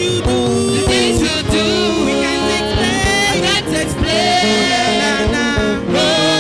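Gospel worship song: voices singing long, bending lines over a band with a drum beat.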